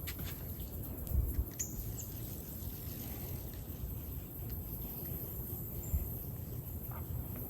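Outdoor ambience: a steady low rumble with a few short, faint, high bird chirps and a couple of soft low thumps.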